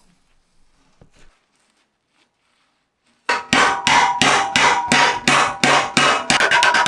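About three seconds of near silence, then a hammer striking metal in steady blows about three a second, each ringing, quickening to about six a second near the end.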